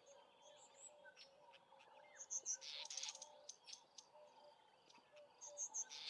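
Faint outdoor ambience: small birds chirping in short, high bursts a few times, over a low call that pulses steadily.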